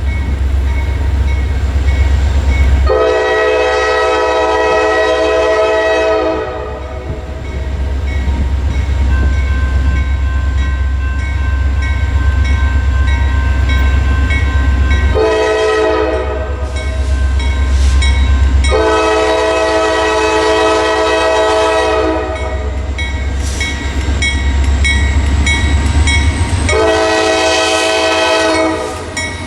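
A passing diesel train's multi-note air horn, sounded in four blasts: long, short, long, then another long near the end, over the steady deep rumble of the locomotive and train.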